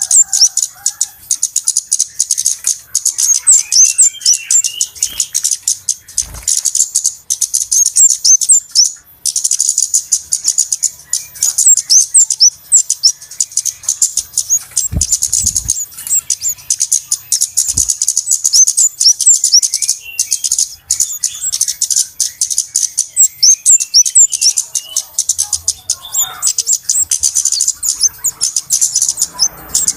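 Flowerpeckers (cabe-cabean) giving rapid, high-pitched chirping calls, a dense and busy lure recording. There is a short break about nine seconds in, and a few soft low thuds around the middle.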